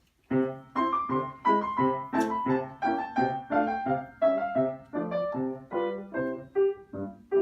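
Piano playing a lively introduction of evenly struck notes, the melody stepping downward over a repeating bass line, starting about a third of a second in. It leads into the song that follows.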